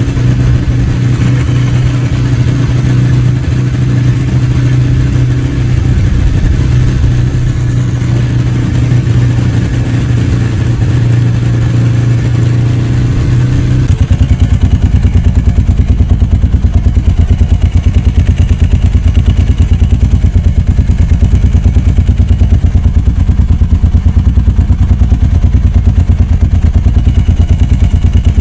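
Ducati 749 motorcycle's V-twin engine running at steady revs, then about halfway through it switches abruptly to a lower, evenly pulsing beat, as at idle.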